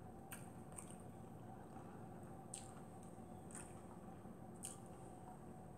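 Faint close-up chewing of a mouthful of fried whiting fish, with about five small wet mouth clicks spread through it.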